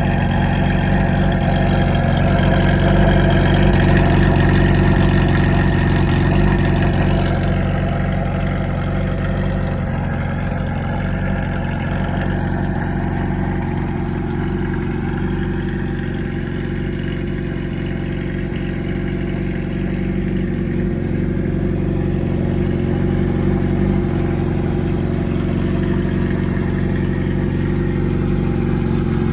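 Kawasaki Zephyr 750's air-cooled inline-four idling through an aftermarket short exhaust pipe with a brass silencer. It runs a little louder for the first several seconds, then settles to a steady idle.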